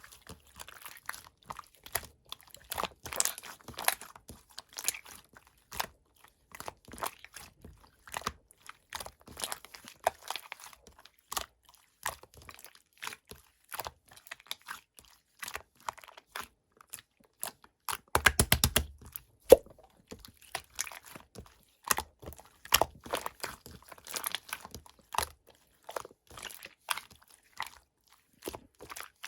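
Red pearl slime being pressed and squished by hand, giving irregular sharp clicks and pops, with a quick run of rapid pops about eighteen seconds in.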